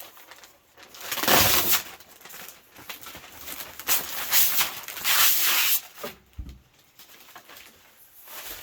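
Plastic protective film being peeled off a new rear window panel, ripping and crackling in a few long pulls with short pauses between.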